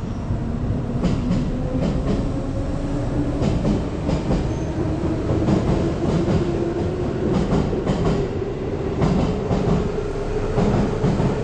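Electric train running on the elevated track overhead: a steady rumble with wheel clatter and a whine that slowly rises in pitch.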